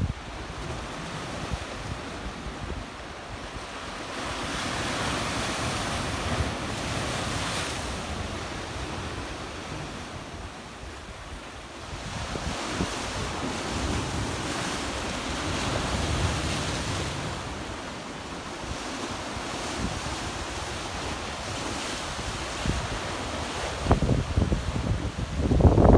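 Black Sea waves washing over a rocky shore, the surf swelling and falling away in slow surges every several seconds. Wind buffets the microphone, with a low rumble growing near the end.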